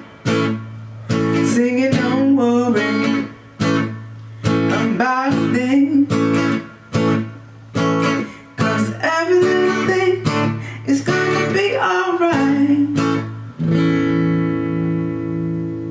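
Acoustic guitar strummed under a sung vocal melody. About 14 seconds in, the singing stops and a final chord is left ringing and slowly fading.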